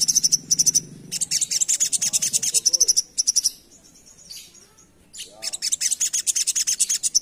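Crimson sunbird (sogok ontong) singing a fast, high chattering song of rapid notes in long runs, with a pause of about a second and a half in the middle.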